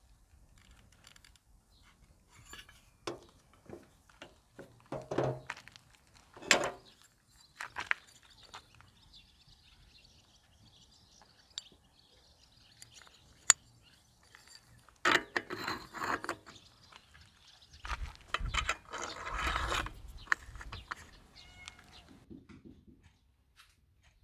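Scooter transmission parts being handled by hand: scattered clicks, knocks and clinks of metal parts, with denser clattering and rustling in two stretches past the middle.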